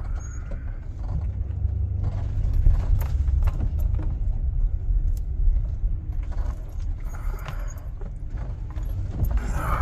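Van cabin on a rough dirt track: a steady low road rumble with scattered knocks, rattles and jangling keys as the van bounces over ruts on shocks the driver calls blown.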